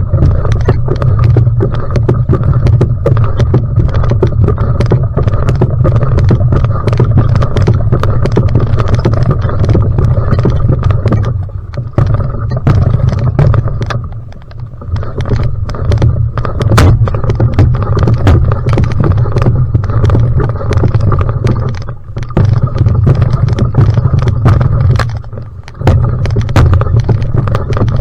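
Va'a outrigger canoe being paddled at full sprint: a loud, steady low rumble of water rushing past, with many quick clicks and splashes from the paddle strokes. The rumble drops away briefly four times.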